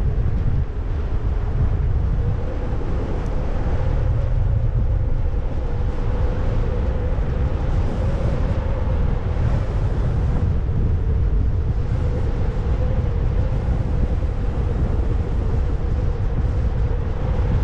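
Strong wind buffeting a GoPro action camera's microphone during a paraglider flight: a steady, low rushing noise with a faint steady hum running through it.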